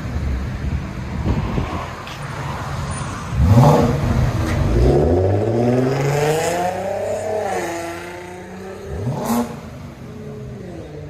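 2000 BMW 540i's 4.4-litre V8 with its mufflers deleted and replaced by 3-inch pipe, idling and being revved: a sharp blip about three and a half seconds in, a longer rev that climbs and drops back to idle, and another short blip near the end.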